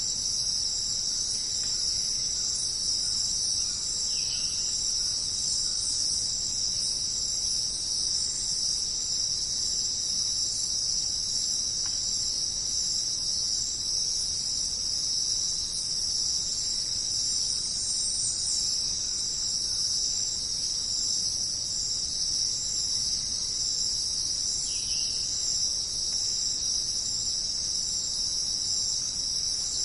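Dense chorus of crickets, trilling steadily and evenly. A couple of faint short chirps come through, about four seconds in and again near the end.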